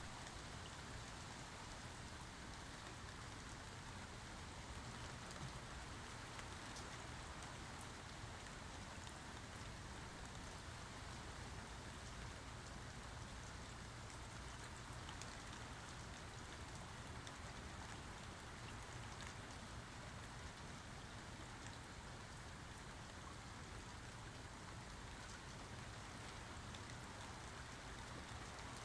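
Steady rainfall, with fine drops pattering on surfaces; no thunder is heard.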